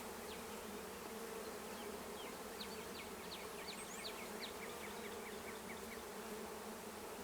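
Honeybee colony buzzing steadily as its box is opened and the frames are separated, with a run of faint short high clicks in the middle.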